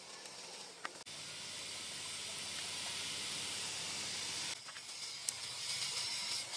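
Steady hiss of steam from a pot of cloves being boiled; it starts abruptly about a second in and cuts off suddenly about four and a half seconds in, leaving a fainter hiss with a few light clicks.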